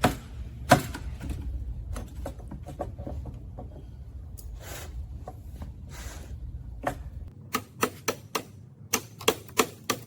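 Sharp clicks and taps of hand tools on metal parts during reassembly of the trike's axle. About three quarters of the way in they settle into a steady run of about three to four clicks a second, and a low rumble underneath stops.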